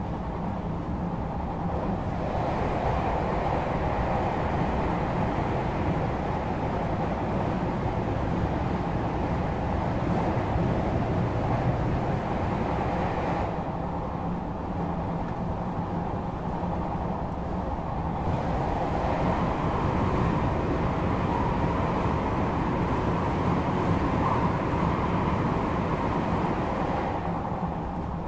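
Steady running noise of an electric passenger train heard from inside the carriage: a continuous rumble of wheels on rail. The higher part of the noise dulls for a few seconds about halfway through, then comes back.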